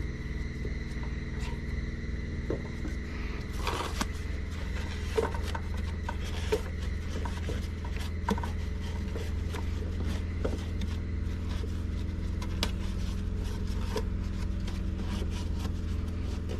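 Scattered light clicks, knocks and scrapes of metal parts and hand tools being handled during intake manifold gasket work, with a short scrape about four seconds in, over a steady low hum.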